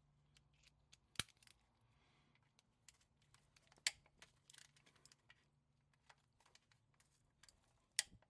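Sparse sharp metallic clicks and clinks from hand tools and bolts being handled during transmission removal, with three louder clicks about a second in, near four seconds and near the end, over otherwise near silence.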